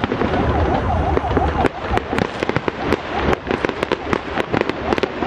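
New Year's fireworks bursting in a dense barrage of sharp cracks and pops, with a heavy low rumble that drops away a little under two seconds in. A warbling up-and-down tone runs under the cracks in the first couple of seconds.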